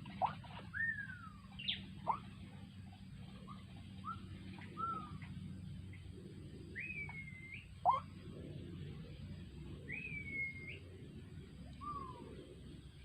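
Birds calling: scattered short whistled notes and several sliding whistles that rise and then drop, over a faint steady low hum.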